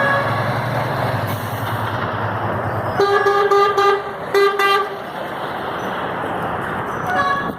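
A truck engine running as trucks pass in a convoy, then a truck horn sounding two loud blasts about three and four and a half seconds in, and a short toot near the end.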